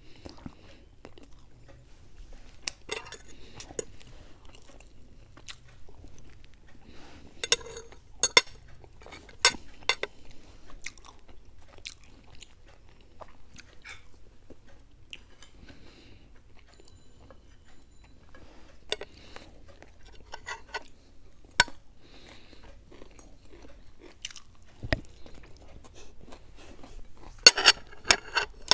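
Two people chewing and biting into fried food, Mughlai paratha and fried chicken pieces, close to the microphone, with scattered crisp clicks and crunches. A louder flurry of crunches comes near the end.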